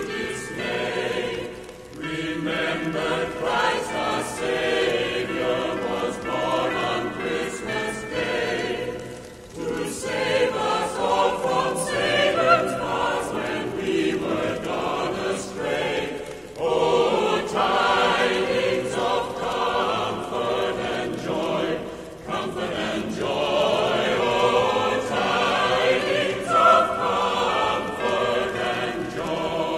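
Choir singing a Christmas carol, in long phrases with short breaths between them.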